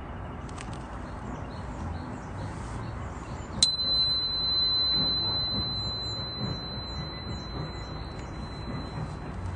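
A metal chime struck once about a third of the way in, ringing with a single high, pure tone that slowly fades over about five seconds. Faint bird chirps sound over low background noise.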